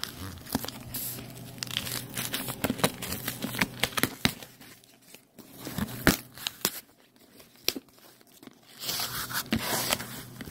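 Plastic and cardboard packaging being torn open and crinkled by hand, with scattered clicks and knocks; it goes quieter for a few seconds midway, then the rustling picks up again near the end.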